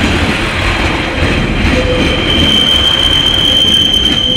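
Class 142 Pacer diesel railbus passing at close range, its wheels and underfloor engine rumbling. A steady high-pitched wheel squeal sets in about halfway through and holds.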